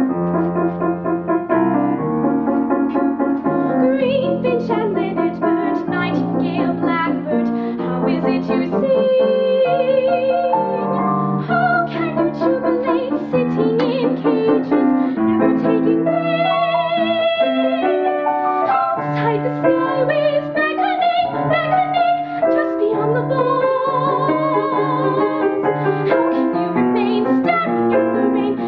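Piano accompaniment playing a musical-theatre song. A woman's trained voice enters a few seconds in, singing a legato line with vibrato over the piano.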